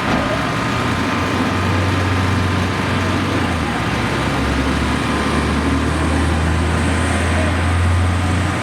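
Engines running steadily: a low rumble under an even wash of street noise, its pitch shifting a couple of times.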